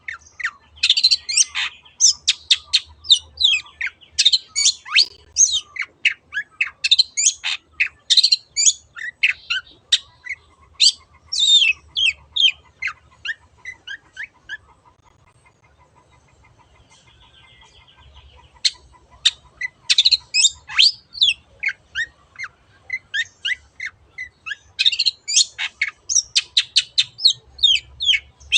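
Long-tailed shrike (cendet) singing a fast, varied string of sharp, squeaky chirps and whistles. About halfway through it breaks off for a few seconds, leaving only a faint trill, then starts again.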